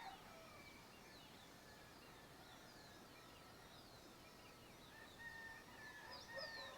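Faint dawn bird chorus: many small birds giving short, high, falling chirps, and from about five seconds in a distant domestic fowl calling with a long held note.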